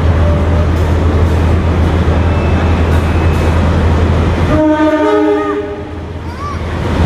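A diesel train running close by, a steady low engine hum over rumbling noise. After an abrupt change, a train horn sounds one steady blast of about a second in the station hall.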